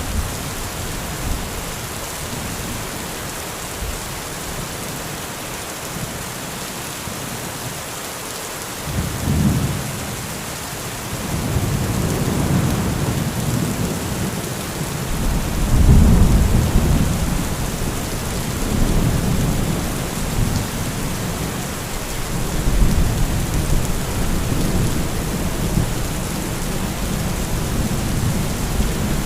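Heavy steady rain with thunder. A short rumble comes about a third of the way in, then longer rolling rumbles swell and fade through the rest, loudest a little past halfway.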